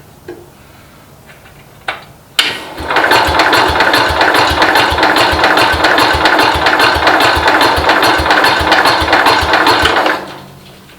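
Cub Cadet 127 garden tractor's single-cylinder engine being cranked by its starter with the choke on, turning over in an even beat of about three or four pulses a second for roughly eight seconds without catching, then stopping abruptly. A click comes just before the cranking starts.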